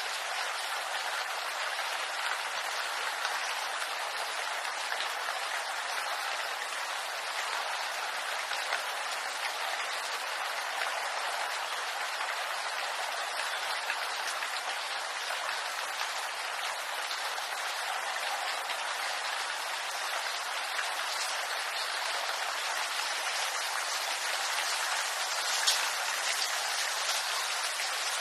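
Steady rain falling on bamboo leaves, a dense patter of drops, with one sharper drop near the end.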